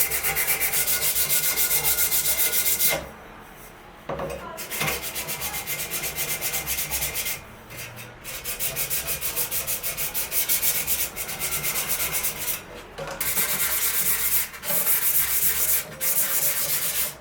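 Wood being sanded with quick, even back-and-forth strokes, in runs broken by short pauses.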